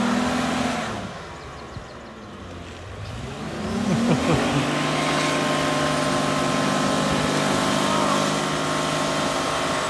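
Ford Five Hundred's V6 engine revving hard while the car is stuck in deep mud, wheels spinning and digging in. The revs drop about a second in, then climb again around four seconds in and are held high and steady.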